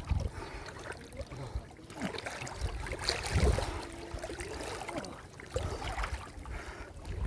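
Pond water splashing and sloshing in uneven surges, with low thumps, loudest about three seconds in.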